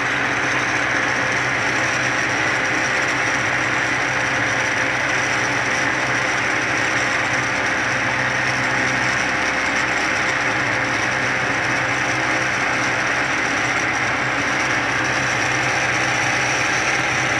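Hurco CNC milling machine running steadily, its spindle at 3,600 RPM as it mills a prototype gear case, a steady hum with a few held tones and no change in level.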